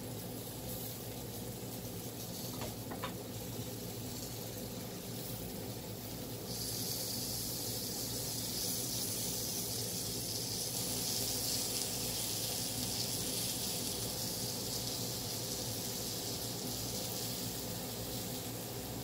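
Chicken thighs sizzling on a Hamilton Beach electric indoor grill: a steady hiss over a low hum. The hiss gets louder about six and a half seconds in and stays up until near the end.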